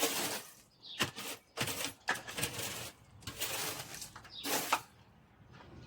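A series of short, rough scraping strokes, roughly one a second, that stop about three-quarters of the way through.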